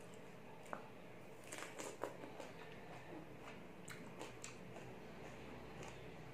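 A person biting and chewing crisp raw vegetable close to the microphone, with a few scattered wet crunches and smacks, the loudest about two seconds in.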